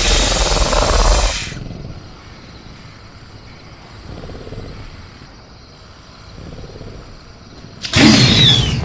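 Sound-effect velociraptor in a cage: a loud noisy burst dies away in the first second and a half, leaving quiet jungle ambience with faint crickets. A second sudden loud burst comes near the end, with a high screech falling in pitch.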